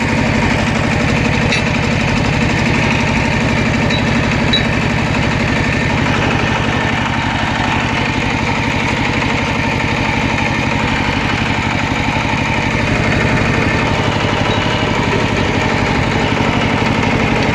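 Tractor engine running steadily at an even speed, its firing pulses close together.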